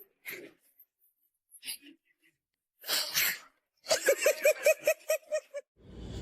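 A sneeze-like burst about three seconds in, followed by a quick run of short pitched cries, about five a second. Near the end a steady background noise cuts in.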